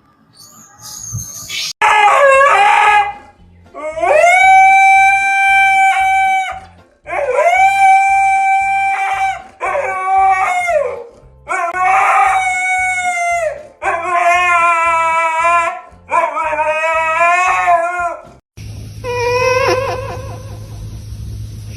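Dog howling: a series of long, drawn-out howls, each held on one pitch for a second or two and sliding at the ends, then shorter wavering howls near the end.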